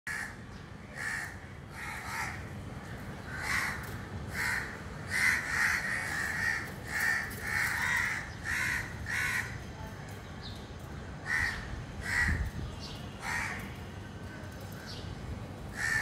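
Birds giving short, harsh caws, more than a dozen calls in quick runs through the first nine seconds or so, then a few more after a pause.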